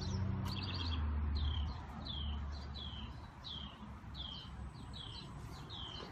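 A small bird repeats a short, falling chirp about twice a second. A low steady hum is loudest for the first second and a half, then fades.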